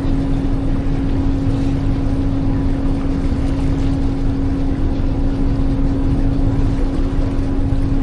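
Tour boat's engine running steadily, with a constant hum and a rushing noise underneath that doesn't change.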